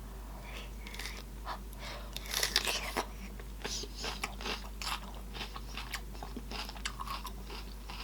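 Close-up mouth sounds of someone eating: wet chewing and smacking in quick irregular clicks, loudest about two and a half seconds in.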